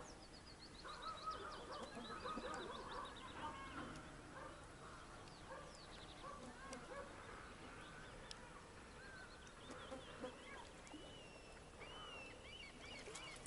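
Birds calling, many short chirping calls repeating and overlapping.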